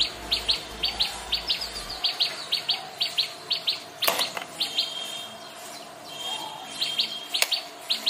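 Small birds chirping in quick runs of short, high notes, with a single sharp knock about four seconds in and a fainter one near the end.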